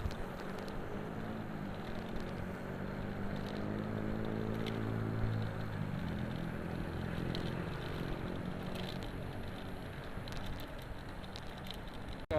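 Road traffic: a motor vehicle engine humming close by, growing louder a few seconds in and fading after about six seconds, over steady road and wind noise.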